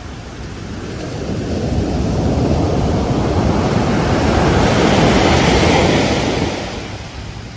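Ocean surf: a wave swells over a few seconds into a loud rush of breaking water, then dies away near the end.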